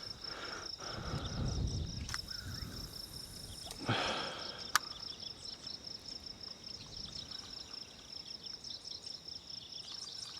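Insects chirping outdoors in a rapid, steady, high-pitched pulse. Low handling noise in the first two seconds, then a short swish and a sharp click about four to five seconds in.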